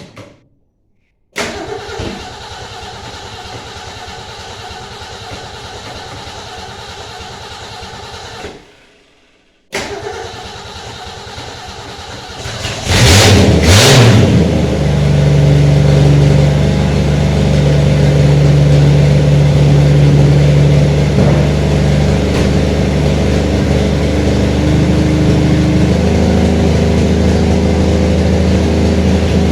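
A carbureted engine, its carburetor just rebuilt, being cranked by the starter for about seven seconds without firing. After a short pause it is cranked again until it catches about 13 seconds in, revs up briefly twice and settles into steady running.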